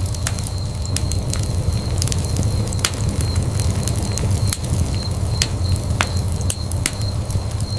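Wood fire burning in a fireplace: a steady low rumble with sharp, irregular crackles and pops.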